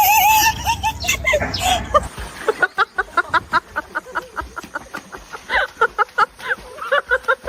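An animal making rapid, repeated short calls, about four or five a second, after a louder warbling passage in the first two seconds.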